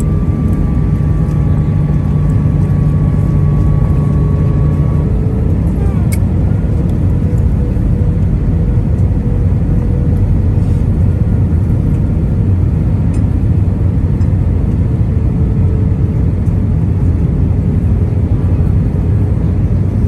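Aircraft engine noise: a loud, steady low rumble, with a faint whine that drifts slightly down in pitch and fades about five seconds in.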